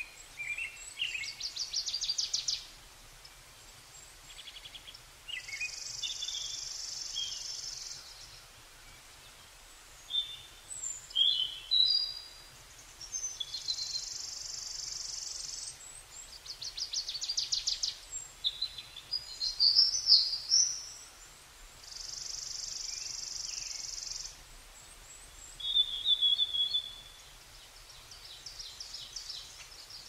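Several birds singing with chirps, short whistled notes and rapid trills. Three long, even, high buzzing trills of about two and a half seconds each stand out among them.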